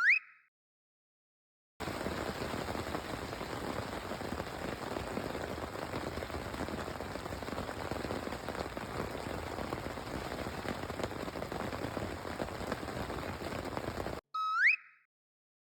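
Steady rain falling, an even hiss of drops that cuts in abruptly about two seconds in and stops just as abruptly about a second and a half before the end. A short rising-pitched sound effect plays at the very start and again near the end.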